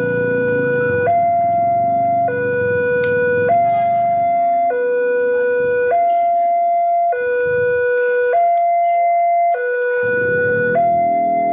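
Railway level-crossing warning alarm sounding a steady electronic hi-lo two-tone, switching pitch a little more than once a second, which signals that a train is approaching. A low engine rumble runs underneath, dies away about six seconds in and returns near ten.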